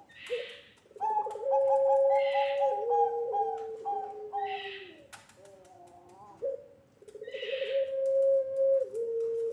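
Puter pelung doves, a long-voiced strain of Barbary dove, cooing in long drawn-out notes that waver slightly in pitch. Several coos overlap, and short breathy puffs recur every two to three seconds.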